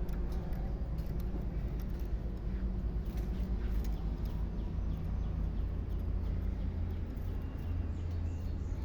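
Small birds giving many short chirps and brief thin calls, over a steady low rumble.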